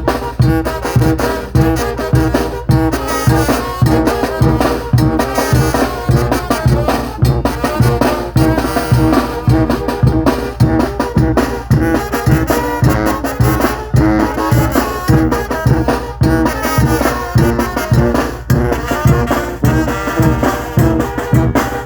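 Regional Mexican brass band (banda de viento) playing, with brass carrying the melody over a steady beat of low bass pulses about twice a second.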